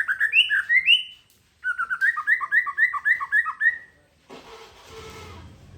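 A songbird singing in two rapid phrases of quick repeated chirping notes with a short pause between them. Near the end the song stops and a steady engine-like rumble and hiss comes in.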